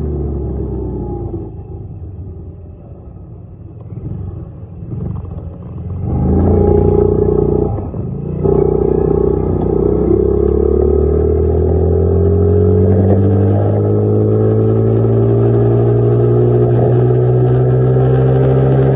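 Dirt bike engine running while ridden: low and quieter at first, picking up about six seconds in, with a brief drop near eight seconds, then its pitch climbing steadily as it accelerates.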